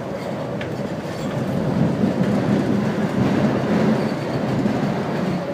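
Running noise of an MTR train heard from inside the car: a steady rolling rumble of wheels on track that grows louder through the middle, with the car's cross-flow ceiling fans running underneath it.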